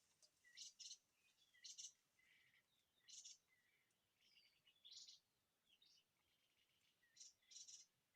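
Faint small-bird chirping: clusters of short, high chirps, several in quick succession, with short pauses between them and a few brief slurred calls.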